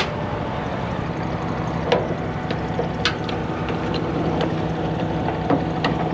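A heavy truck's engine idling steadily, with a few short sharp clicks over it.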